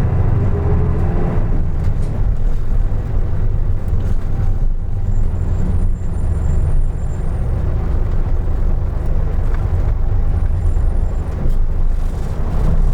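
A 2003 Isuzu Erga Mio city bus (KK-LR233J1) running steadily with its diesel engine and road noise, with a faint high whine heard twice.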